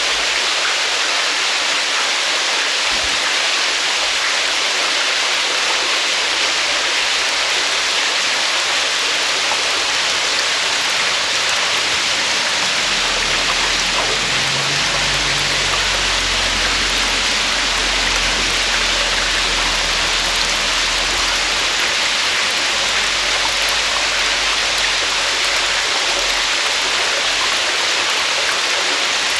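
Cave waterfall pouring steadily, a dense even rush of falling water. A low rumble joins about halfway through and fades out near the end.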